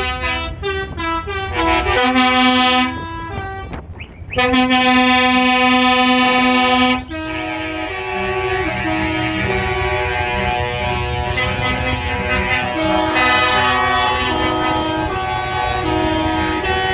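Truck air horns honking in a fanfare: quick stepping notes like a tune at first, a long held blast from about four to seven seconds in, then several horns sounding over one another at changing pitches.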